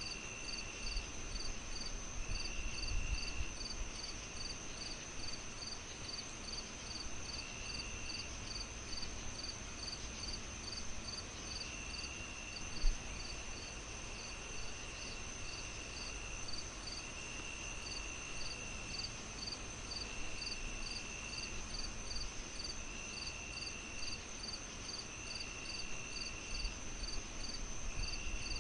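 Crickets chirping in an even rhythm of about two chirps a second, with a steady high insect whine and a lower trilling call that comes and goes. Beneath them a low fireplace crackle, with one sharp pop about halfway through.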